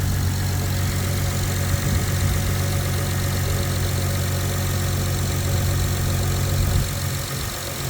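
2005 Acura TL's 3.2-litre V6 engine idling with a steady low hum, dipping slightly near the end.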